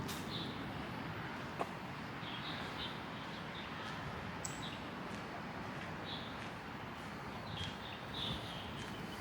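Small birds chirping: short, high chirps repeat every second or so over a steady background hiss. A single sharp click sounds about a second and a half in.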